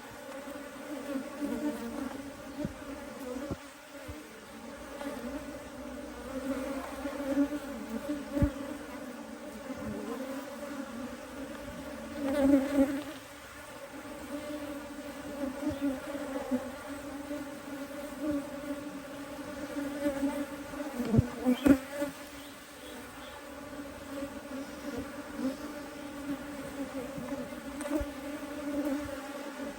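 Honeybee colony humming steadily in an opened brood box, with a few brief knocks from frames being handled, the louder ones about 12 and 21 seconds in.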